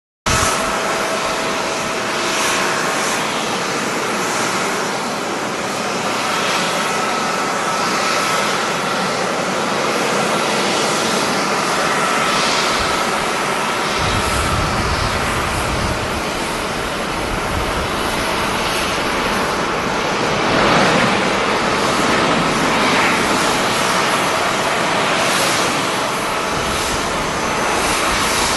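Jet airliner engines running, a dense steady hiss with a faint whine; a deeper rumble joins about halfway through.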